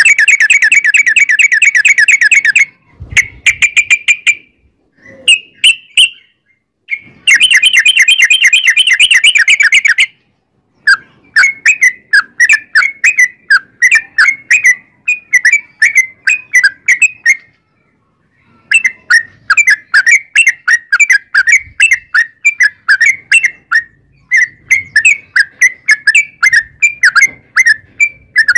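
Yellow-vented bulbul (trucukan) singing: fast rolling trills at the start and again a few seconds in, then strings of quick, bubbly chirping notes with short breaks.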